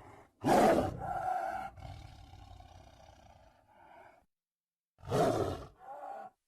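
Tiger roaring and growling: a loud roar about half a second in trails into a long growl that fades over about three seconds. After a second of silence comes another short roar, then a brief growl near the end.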